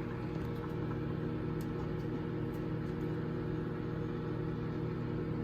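Microwave oven running mid-cycle, a steady electrical hum with a few faint ticks.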